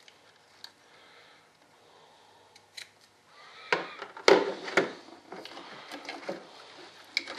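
Adhesive tape being handled and cut into a tab on a wire lead. After a few quiet seconds come several sharp snips and crinkles, then lighter rustling.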